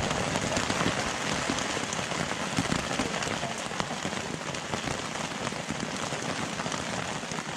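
Light rain falling: a steady hiss with many small drop hits on a surface.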